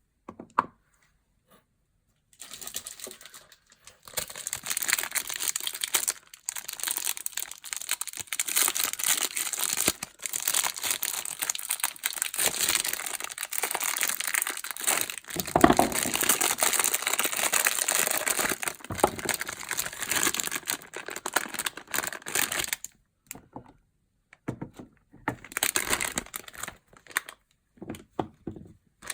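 Soap packaging crinkling and rustling as bars of soap are unwrapped by hand, with a few tearing sounds. The crinkling runs on continuously for most of the time, then breaks into short bursts near the end.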